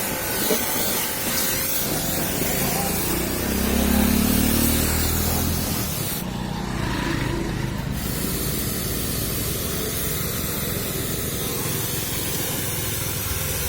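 Water spray hissing steadily, as in a vehicle wash. The high part of the hiss drops out for about a second and a half just after the middle.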